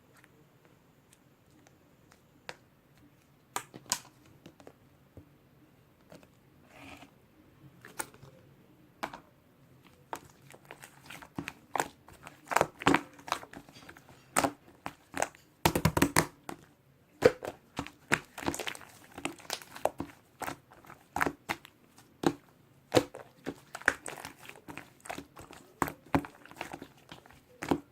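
Green marbled slime squeezed and pressed by hand, giving sharp clicks and pops, scattered at first and coming in quick clusters from about ten seconds in.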